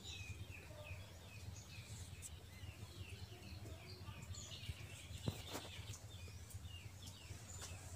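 Small birds chirping over and over in the background, short high notes that slide downward, over a low steady hum. A single sharp click about five seconds in.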